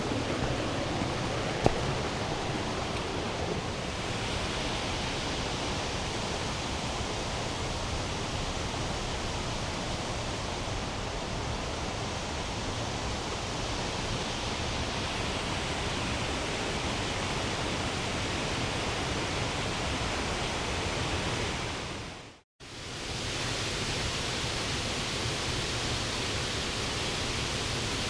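Steady rushing of a mountain stream's rapids, an even hiss of water. A single sharp click comes near the start, and the sound cuts out for a moment about two-thirds through before the water returns.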